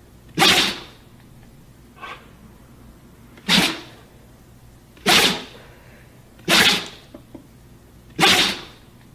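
A dog sneezing repeatedly: five sharp sneezes, mostly about a second and a half apart, with a fainter one about two seconds in.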